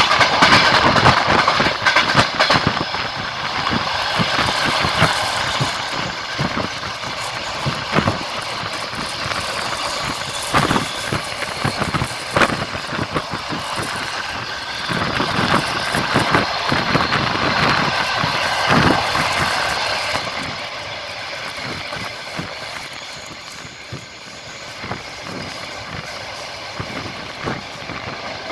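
A moving train heard from inside a carriage at the window: steady rolling noise with the wheels knocking over rail joints in irregular clicks. It grows somewhat quieter in the last third.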